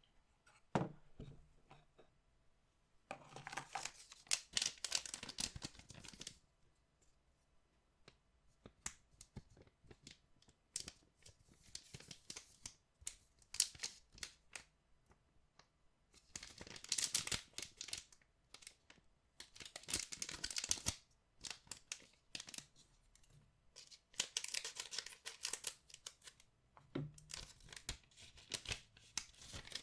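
Packaging of a collectible trading-card box being torn open and crinkled by hand, in about five bursts of tearing and rustling of a second or more each. Light clicks and taps come in between, from the packs and cards being handled.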